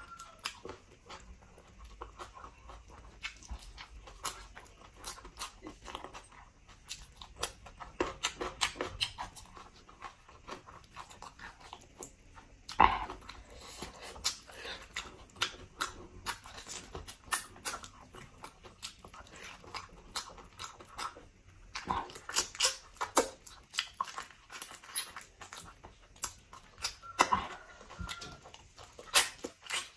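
Close-up eating sounds: wet chewing, lip smacking and biting while gnawing meat and skin off a piece of pork leg. Irregular sharp clicks and smacks, with louder flurries about 13 seconds in, again around 22 seconds, and near the end.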